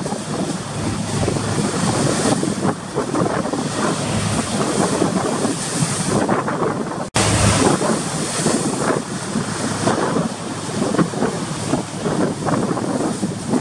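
Strong wind buffeting the microphone over the rush of rough sea waves along a passenger ship's hull, a steady loud noise that drops out for an instant about halfway through.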